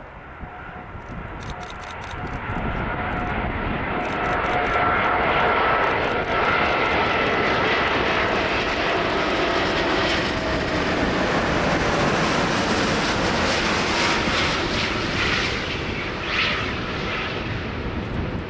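Airbus A380-800's four Rolls-Royce Trent 900 turbofans on landing, a jet noise that grows louder over the first few seconds and then holds. A faint fan whine runs through it and slides slowly lower in pitch as the aircraft passes.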